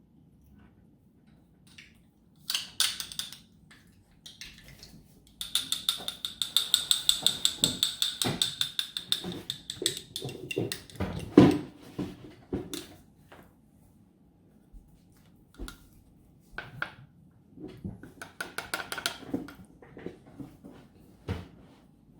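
A spoon stirring peanut butter thinned with water in a bowl: runs of quick, ringing clinks against the bowl, with a few scattered knocks and one louder knock about halfway through.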